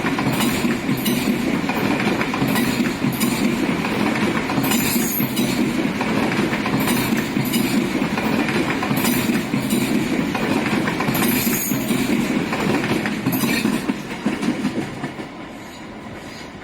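High-speed EMU train running as two coupled trainsets, passing close by as it comes in to the station. A steady rumble of wheels on rail with regular clacks, dying away over the last couple of seconds as the end of the train goes by.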